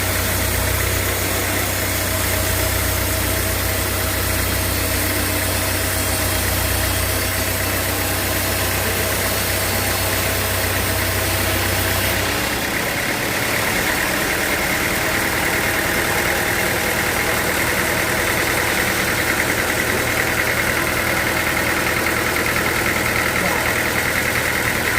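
Sawmill machinery running steadily with an engine-like drone. About halfway through, the sound changes: the deep hum fades and a higher-pitched whine comes up and holds.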